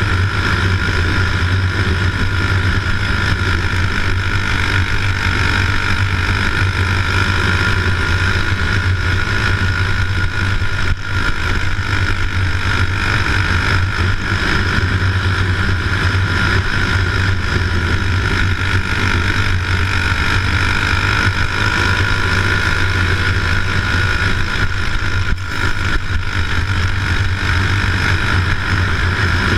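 Steady engine drone, running evenly with no change in speed.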